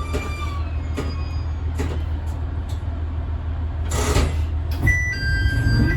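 Diesel railcar running, heard from beside the driver's cab: a steady low engine drone with sharp clicks from the wheels, the loudest about four seconds in. The drone grows louder near the end, and an electronic ringing that alternates between two pitches starts about five seconds in.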